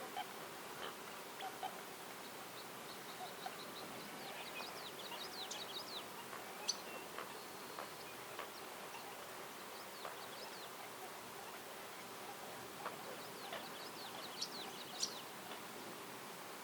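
Forest ambience: small birds giving two spells of quick, high chirps over a steady faint hiss, with a few scattered light clicks.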